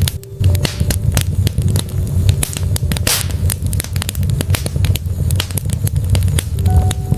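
Wood fire burning in a fireplace: logs crackling with frequent sharp pops over a steady low rumble of the flames, and a brief hiss about three seconds in.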